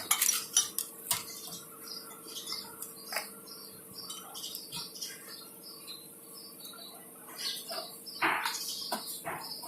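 Metal tools and parts clinking and clattering in scattered knocks, busiest in the first second and again near the end, as work goes on at an engine.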